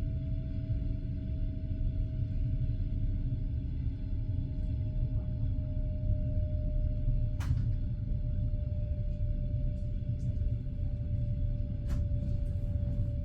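Passenger train carriage riding along the track: a steady low rumble of wheels on rail, with a thin steady whine that sinks slightly in pitch. Two sharp clicks come about seven and twelve seconds in.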